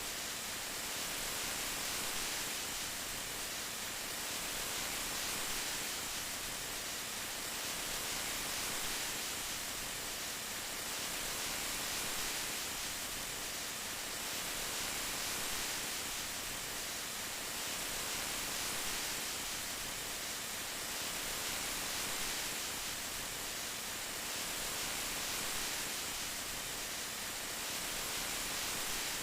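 Steady rain, an even hiss with no separate drops or thunder, swelling slightly in loudness every few seconds.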